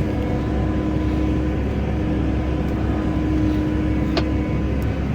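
Case 140 tractor's diesel engine running steadily under way, heard from inside the cab, with one short click about four seconds in.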